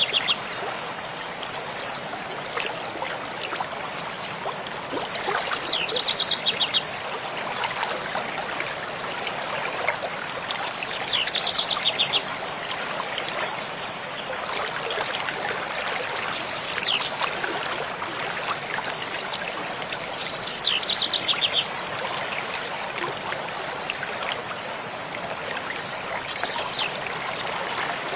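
Mountain stream flowing steadily, with a songbird repeating a short song of quick high notes about every five seconds, six times over.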